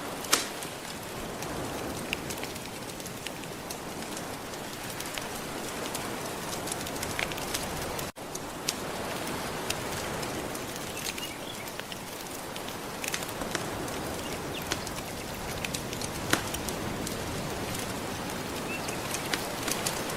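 Crackling wood fire over a steady wash of gentle surf: a constant hiss of waves with scattered sharp pops and snaps from the burning wood. The sound drops out for an instant about eight seconds in.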